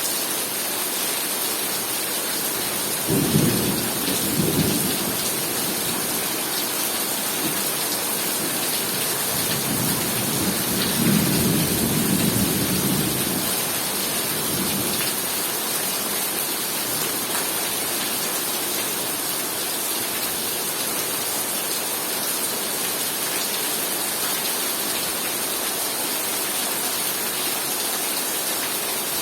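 Heavy rain falling steadily, with two low rolls of thunder: a short one about three seconds in and a longer one a few seconds later.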